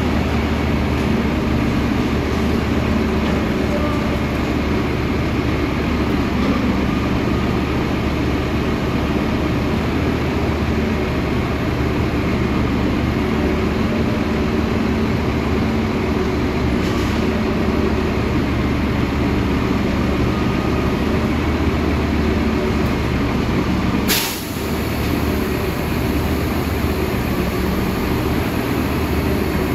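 Heavy diesel vehicles running steadily in stopped city traffic, led by a garbage collection truck's engine. About three-quarters of the way through there is one short sharp sound, and the level dips for a moment after it.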